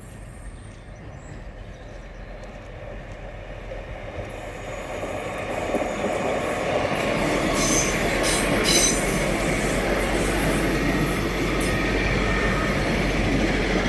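Midland Pullman HST train approaching and passing, growing louder over about six seconds and then running past steadily. There are a few clicks from the wheels and a thin, high wheel squeal near the end.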